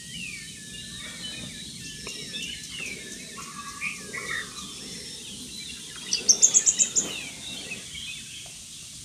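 Several wild birds calling and singing at once, with many short chirps and whistles overlapping. The loudest is a rapid run of about eight high, sharp notes about six seconds in.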